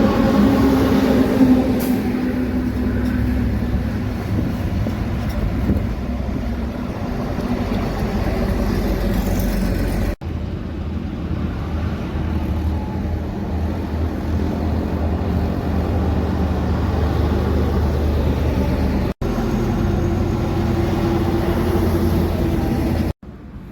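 Heavy truck traffic driving past: a steady, loud low engine and road rumble. It breaks off abruptly and picks up again about ten, nineteen and twenty-three seconds in.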